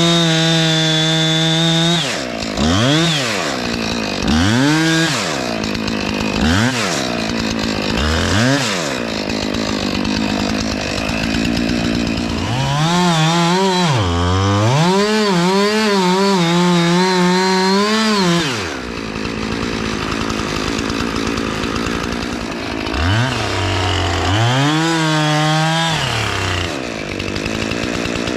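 Two-stroke chainsaw felling a pine: the engine revs to full throttle for a long cut and several short blips, dropping back to idle between them.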